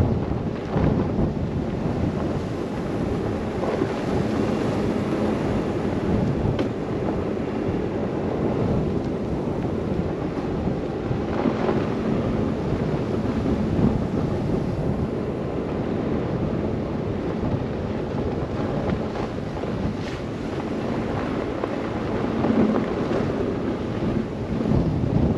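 Blizzard wind buffeting the microphone of a car driving through snow, a steady low rumbling noise that swells and eases slightly without a break.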